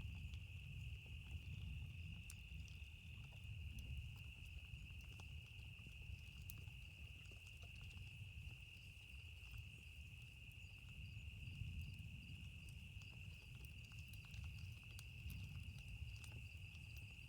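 Faint campfire crackle, small scattered pops, over a steady high chorus of crickets or other insects. A low rolling rumble of distant thunder swells near the start and again near the end.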